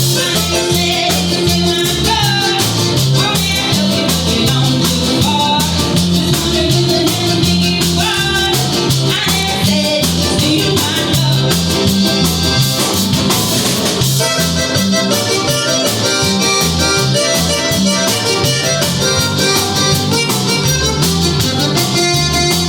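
Live band playing an instrumental passage of a country-rock song: guitar, bass and drums keep a steady beat under a melodic lead line.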